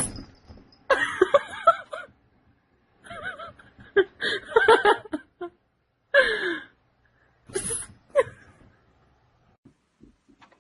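A sharp click at the very start, then a person laughing in four bursts, the first three long and the last short.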